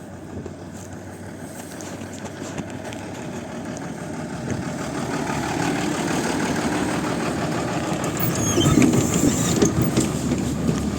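Interior of a PAZ 32054 bus underway: the engine running with body rattles, the sound growing steadily louder over the first six seconds as the bus picks up speed, with a few faint high squeaks near the end.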